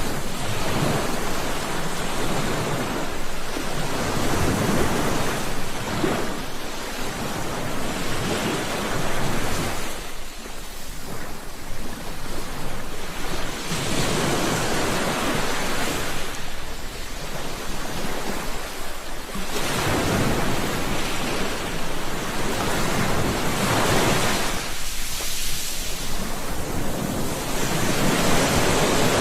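Sea waves breaking and washing onto a shore, the surf swelling and easing every few seconds.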